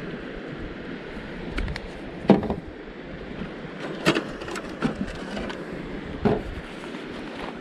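Steady rushing of a mountain river, with several sharp knocks over it, the loudest about two seconds in.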